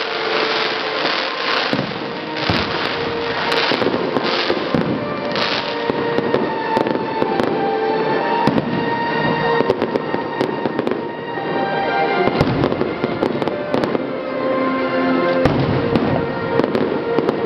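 Aerial fireworks bursting, with repeated sharp bangs and crackling, over music with sustained tones.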